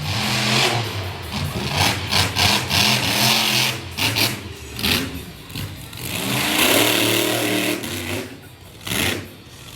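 Monster truck engine revving hard in repeated bursts, its pitch rising and falling, easing off briefly near the end.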